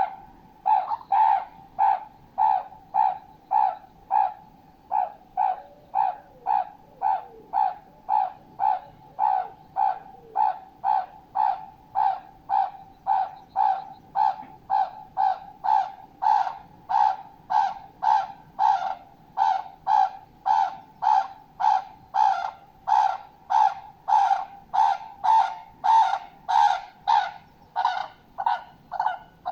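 A bird calling over and over with short, loud, trumpet-like notes, about three every two seconds, the calls growing slightly louder and brighter in the second half.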